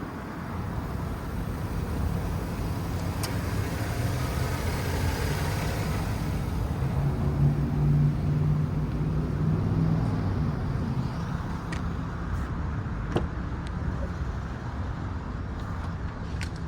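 Pickup truck engine running steadily, swelling louder with a clearer engine note from about six seconds in, peaking around eight seconds, then easing back to a steady run.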